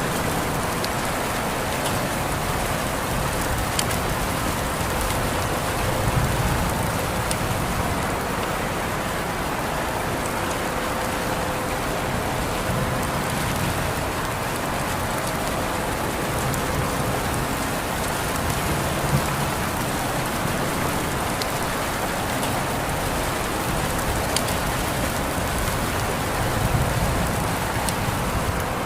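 Steady rain falling, a continuous even hiss with scattered single drops ticking and a few soft low rumbles.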